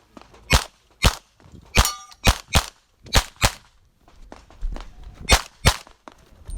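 Rapid 9mm pistol fire as an IPSC competitor shoots through a stage: about nine shots, several as quick double taps about a third of a second apart, with a short pause before a final pair.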